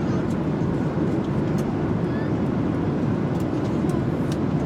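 Airliner cabin noise: the steady, low-pitched rush of the jet engines and airflow heard from inside the passenger cabin.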